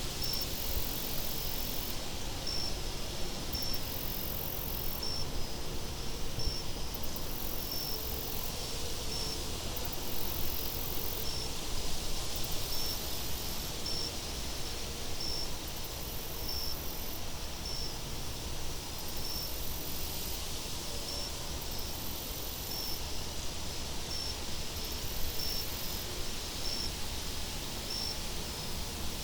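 Steady wind ambience with a low rumble, over which a cricket chirps in short regular chirps about once a second.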